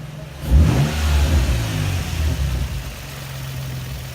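Nissan 350Z's 3.5-litre V6 idling. About half a second in it is revved, held up for about two seconds, then settles back to idle.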